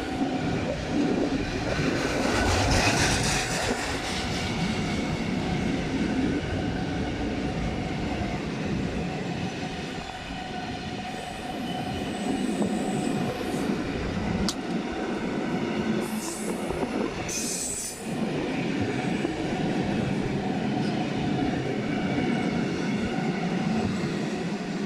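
A train running through a station, the steady rumble of its wheels on the rails, with two short high-pitched bursts about two-thirds of the way through.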